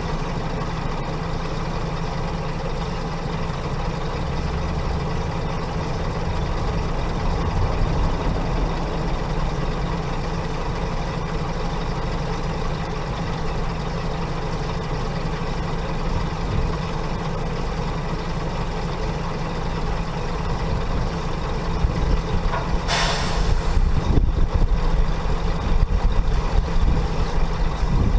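Heavy diesel engine running steadily, with one short, loud hiss of compressed air from an air brake near the end.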